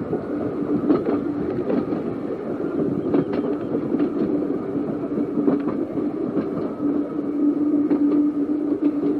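Small electric narrow-gauge tram running along its track, with a steady motor hum and irregular clicks of the wheels over the rail joints.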